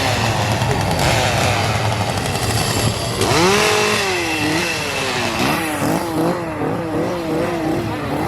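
A chainsaw revving. It runs rough for about three seconds, then the revs shoot up and the throttle is pumped in quick repeated revs, rising and falling about twice a second.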